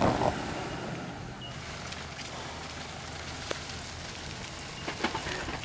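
Four-wheel-drive vehicle engine running steadily while driving off-road through mud, with wind noise on the microphone.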